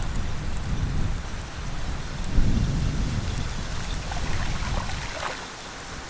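Wind buffeting the microphone: a gusty low rumble that eases off about five seconds in.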